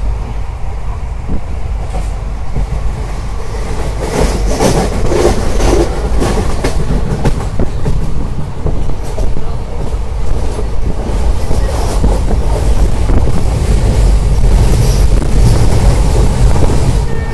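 Passenger train running along the track, heard from inside a coach: a steady heavy low rumble with irregular knocks and rattles from the wheels and carriage.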